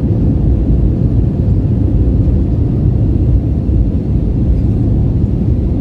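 Airliner cabin noise on the ground before lift-off: a loud, steady low rumble from the engines and the aircraft rolling along the runway.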